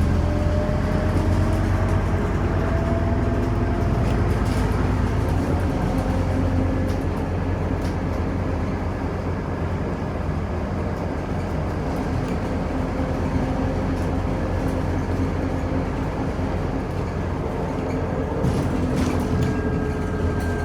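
Scania Omnicity city bus driving, its engine and drivetrain running with a steady low rumble and a whine that rises slightly at the start, heard from on board. A few light rattles come near the end.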